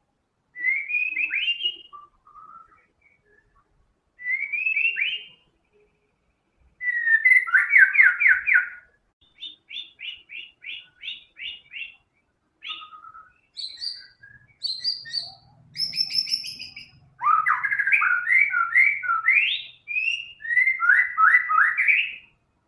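White-rumped shama singing: a string of varied phrases, each a quick run of repeated whistled notes, separated by short pauses. It is working through its repertoire of learned and mimicked song phrases.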